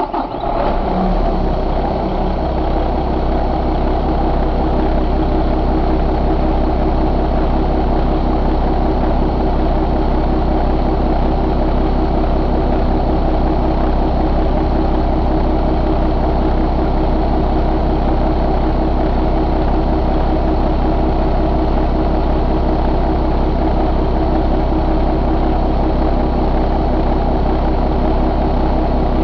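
Paccar MX-13 inline-six diesel engine idling steadily just after being started, settling into its idle within the first second or so.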